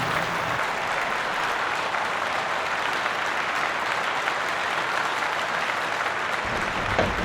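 Crowd applause and cheering, a steady wash of noise. A low hum joins near the end.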